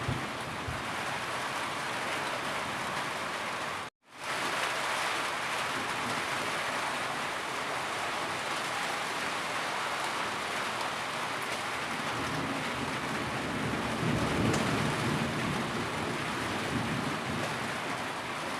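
Steady rainstorm, an even hiss of rain falling with no thunder, that cuts out completely for a split second about four seconds in before resuming. A low rumble swells under the rain around two-thirds of the way through.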